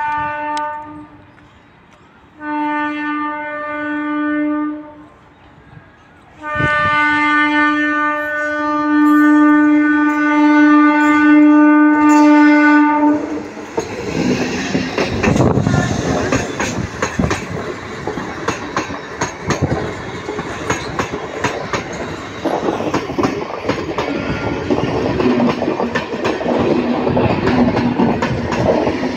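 An Indian Railways train's locomotive sounds its horn three times as it approaches: a short toot, a blast of a few seconds, then a long blast of about six seconds. The locomotive and passenger coaches then pass close by with a loud rumble and a steady clickety-clack of wheels over the rail joints.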